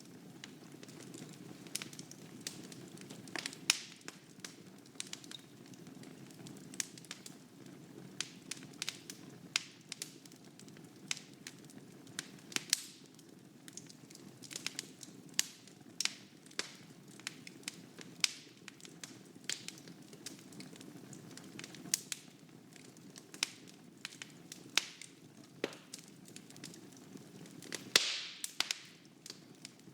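Wood fire burning in a fireplace: a steady low rumble of flame with frequent sharp crackles and pops, and a louder hissing flare-up near the end.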